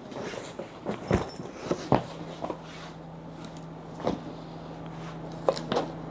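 A few sharp knocks and footsteps in a small room; about two seconds in, a steady low hum starts and keeps going.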